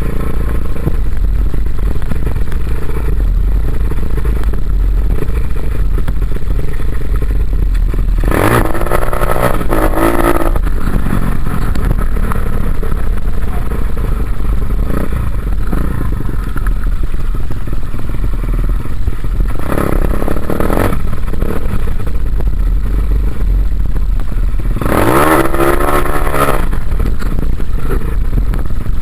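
Dirt bike engine running over a steady low rumble, revved up in rising bursts three times: about eight seconds in, around twenty seconds, and near twenty-five seconds.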